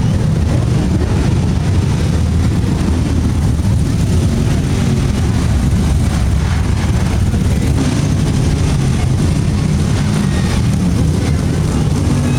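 Car engines running at low speed, a steady low drone without a break.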